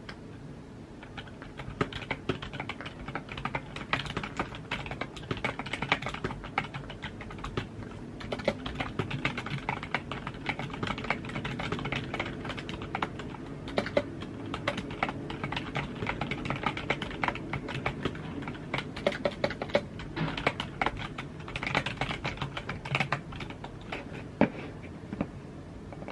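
Computer keyboard being typed on continuously, a fast, irregular run of key clicks that starts about a second in and stops near the end, over a steady low hum.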